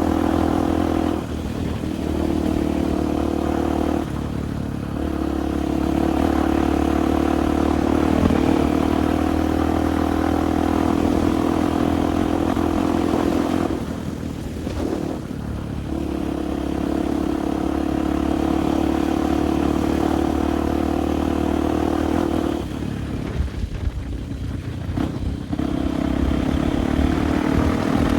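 Enduro motorcycle engine pulling at steady revs while being ridden, with the throttle closed briefly several times, longest about 14 s in and again around 23 s in, before it picks up again.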